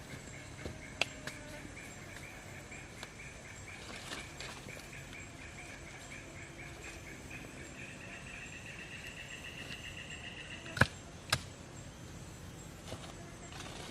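An insect trilling in a fast pulsing high tone that slowly rises in pitch and stops about eleven seconds in. Two sharp knocks, the loudest sounds, come half a second apart just as the trill stops, with a few fainter clicks earlier.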